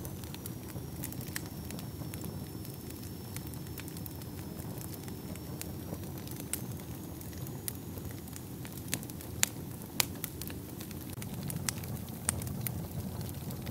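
Wood fire burning in a fireplace: a steady low rumble of flames with frequent sharp crackles and pops, the loudest pops about nine and a half and ten seconds in.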